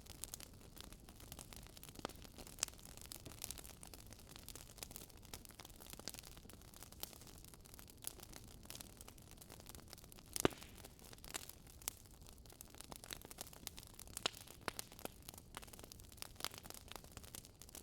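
Wood fire crackling: irregular sharp pops and snaps over a soft hiss, the loudest pop about ten seconds in.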